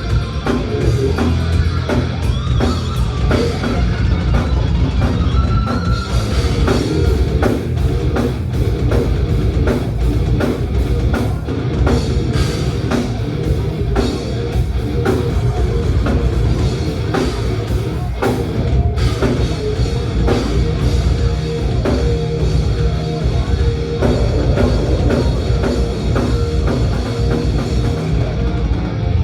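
Thrash metal band playing live: electric guitars over a drum kit with rapid, dense hits, loud throughout.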